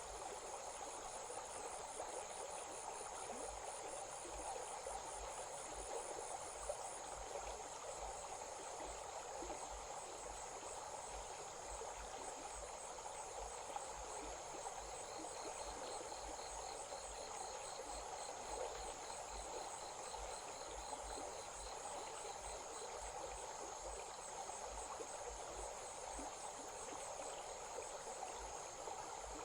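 Insects trilling steadily in a high, rapid pulse at dusk, over the even rush of a flowing stream. A second, lower-pitched insect trill joins about halfway through and stops some eight seconds later.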